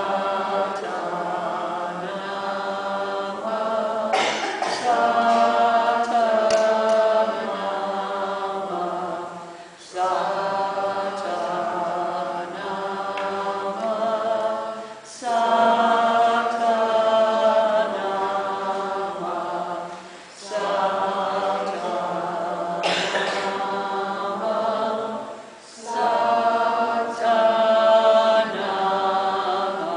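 A group of voices chanting a cappella, singing a repeated phrase of about five seconds with a short breath between each repetition.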